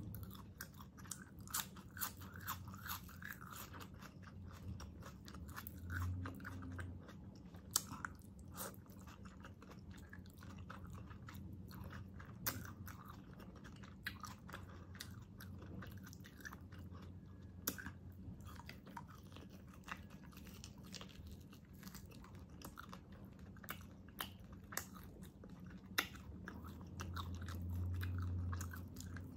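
Close-miked chewing and biting of braised pork hock (pork pata adobo), with frequent sharp mouth clicks scattered throughout.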